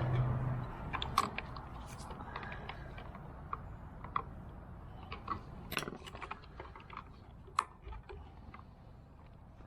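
Scattered small clicks, taps and rattles of plastic and metal parts being handled while a fuel pump assembly is taken apart by hand, with a few sharper clicks. A low hum stops about a second in.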